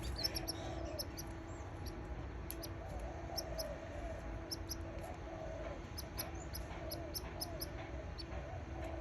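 Canary chicks cheeping: short, very high chirps repeated in quick clusters over a steady low hum.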